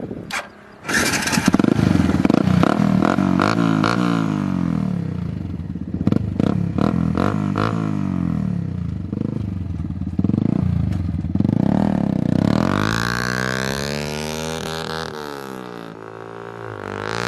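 Old motorcycle engine, just restored, running and being revved up and down repeatedly, its pitch rising and falling; it comes in suddenly about a second in.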